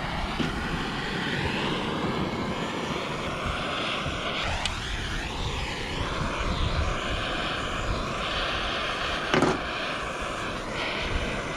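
Bernzomatic MAP-Pro gas torch burning with a steady rushing hiss, wind gusting on the microphone. Two brief clicks, about halfway through and again near the end.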